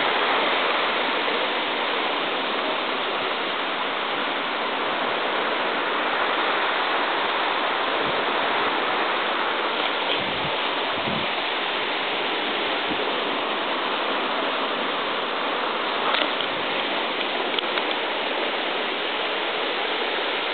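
Waterfall: a steady, even rush of falling water, with a few soft thumps about halfway through.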